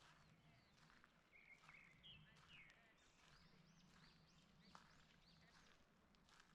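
Faint forest birdsong: several small birds chirping in quick arching notes, with a short warbling call about two seconds in. Footsteps sound on the forest path under the chirping, and a faint steady low hum runs underneath.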